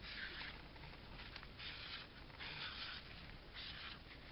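Faint scratching of a pen drawing swirls on paper, in a few separate strokes of about half a second each.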